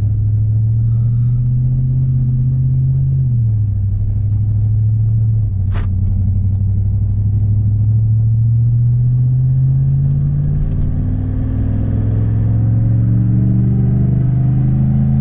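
2016 Ram 1500's 5.7-litre Hemi V8 pulling the truck at light part throttle while warming up. The engine note climbs gradually and drops as the automatic transmission upshifts, about three seconds in and again about five and a half seconds in, then climbs steadily. A single sharp click about six seconds in.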